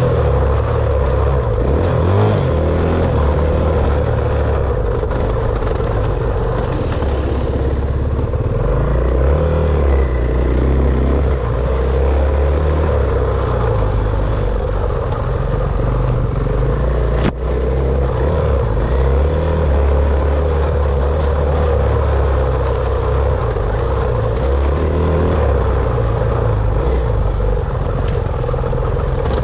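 Dirt bike engine running under way, its pitch rising and falling as the throttle is worked on the trail.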